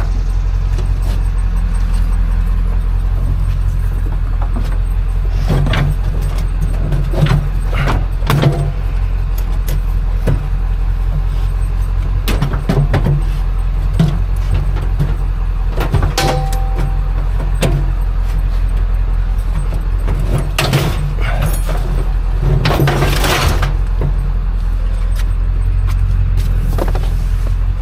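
A vehicle engine running steadily with a constant low rumble, with scattered knocks and rattles over it, the loudest about two thirds of the way in.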